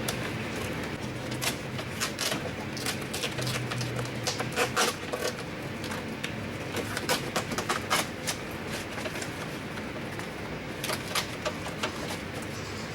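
Irregular light clicks, taps and knocks of hands working parts inside a car door, with no steady rhythm.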